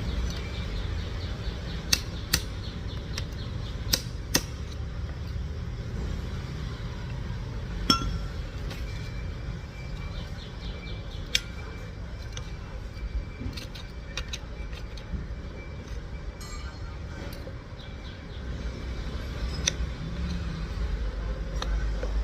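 An engine running with a steady low rumble, with a few sharp metallic clinks over it.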